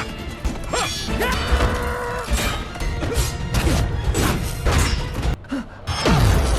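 Animated-film soundtrack: music with crashing impacts, and a cartoon cat character giving short wordless cries and grunts that swoop in pitch.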